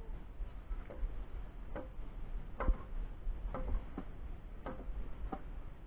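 A series of light taps or knocks, roughly one a second and not quite evenly spaced, each with a brief ring.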